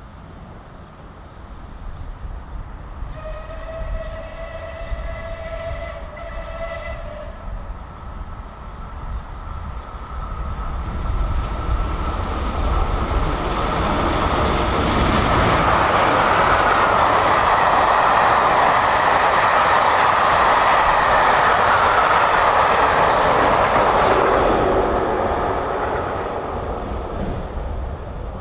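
Steam locomotive whistle blown once for about four seconds, then the train comes past close by, growing loud, holding for several seconds and fading away near the end.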